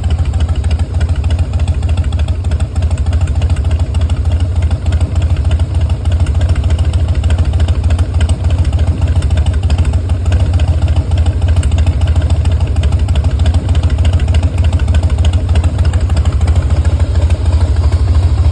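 Harley-Davidson Twin Cam 96 V-twin of a 2010 Softail Custom idling steadily through aftermarket slash-cut slip-on mufflers.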